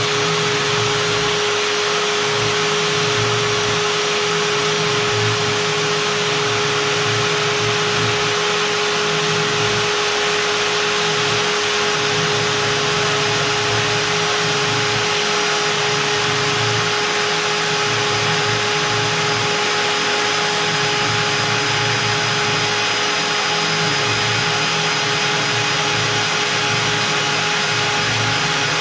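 Stepcraft M1000 CNC router spindle running at 25,000 rpm, a steady whine over a broad rushing noise, as a 4 mm two-flute up-down compression bit mills out beech.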